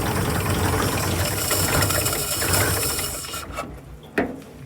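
WW2 International KS4 truck engine running just after a first start, then dying away about three and a half seconds in. A single sharp knock follows near the end.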